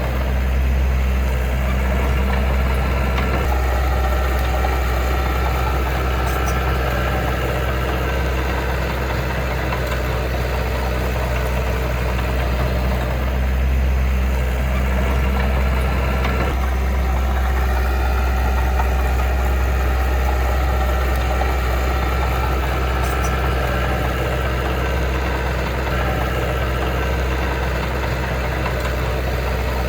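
Heavy diesel engine of earthmoving machinery running steadily at low revs, with a deep, even hum.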